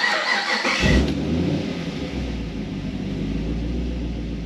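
Swapped Camaro V8 with a racing camshaft cranked by the starter for about a second, then catching, flaring up and settling into an idle. The big-overlap cam makes it idle a little unevenly ('limps a bit'), though the tuner judges it nothing serious.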